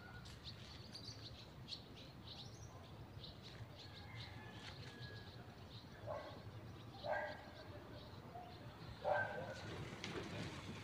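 Birds chirping in short, high, scattered notes over a faint steady low hum, with three brief louder sounds about six, seven and nine seconds in.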